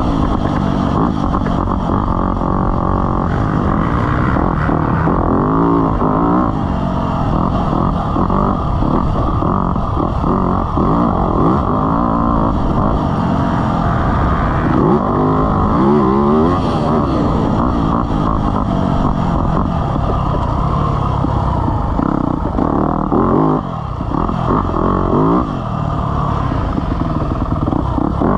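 Dirt bike engine being ridden, revving up and falling back again and again, its pitch rising and dropping with the throttle.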